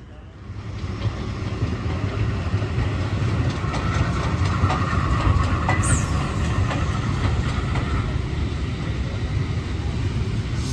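A train rolling past close by, a steady low rumble with the clatter of wheels over rail joints, rising in the first second. A brief high squeal, falling in pitch, comes about six seconds in.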